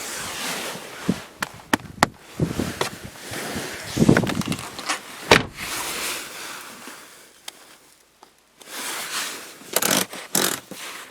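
Handling noises inside a car: a run of sharp clicks and knocks with rustling and scraping, as from seat adjusters being worked and someone shifting in the seat, with a short lull about eight seconds in.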